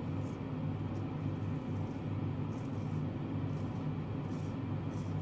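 A steady low hum, with a few faint, brief scraping sounds scattered through it.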